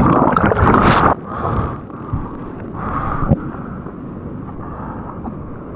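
Water rushing and splashing with wind buffeting the microphone, loud for about the first second, then dropping off abruptly to a quieter wash of water.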